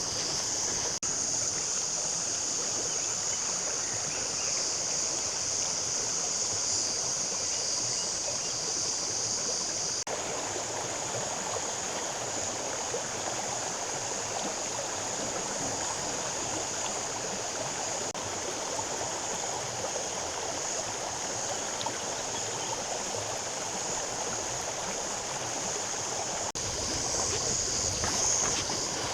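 Water flowing steadily, like a stream, with a steady high-pitched hiss over it for the first ten seconds and again near the end.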